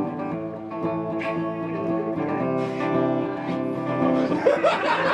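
Guitar music playing, with chords held and changing about every second. Laughter and voices rise near the end.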